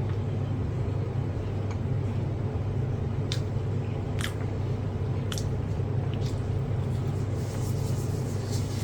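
A steady low hum, with a few short, soft, wet clicks and smacks of someone eating.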